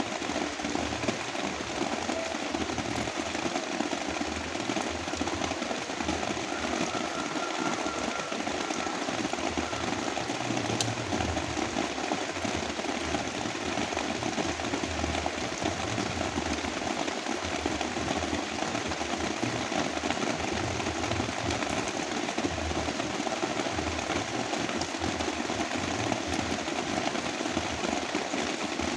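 Heavy rain mixed with brown noise: a steady, dense hiss that does not let up.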